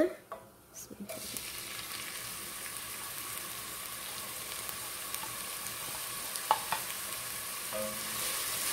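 Chopped shallots dropped into hot oil about a second in, then sizzling steadily as they fry, with a few light knocks near the end as a wooden spatula starts stirring them.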